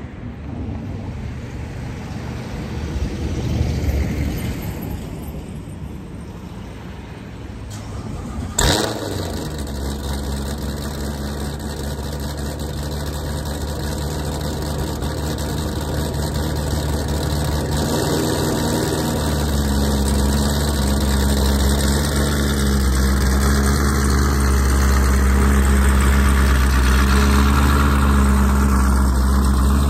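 Chevrolet Camaro's engine starting with a sharp loud flare about nine seconds in, then idling steadily. It grows louder over the last third as the car pulls slowly out of the garage.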